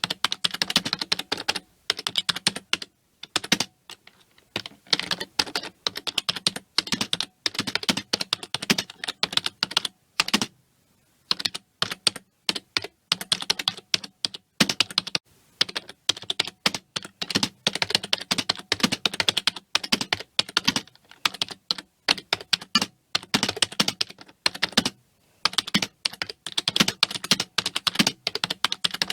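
Fast typing on a computer keyboard: rapid key clicks in runs, broken by brief pauses of a second or so.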